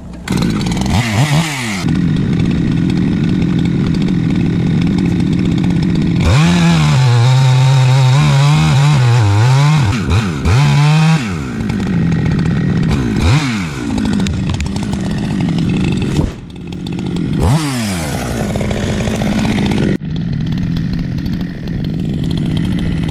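Gasoline chainsaw running at high revs and cutting wood, its engine note rising and dropping back several times as it bogs under load and frees up.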